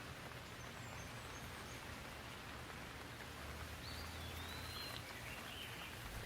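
Steady rain sound, a soft even hiss, with a few faint high whistled calls around the middle.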